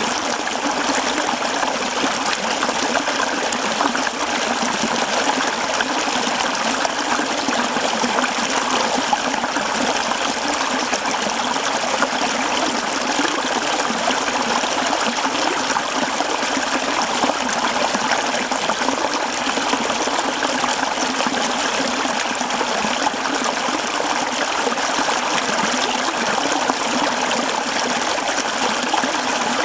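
Mountain stream flowing over rocks, a steady rushing and trickling of water that does not change.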